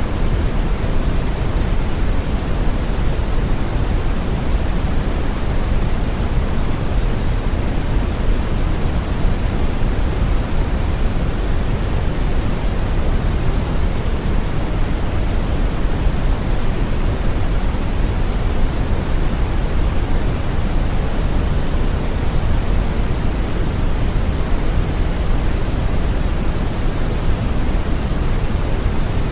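Continuous brown noise: a steady, even rumbling hiss weighted heavily toward the bass, with no pitch, rhythm or change.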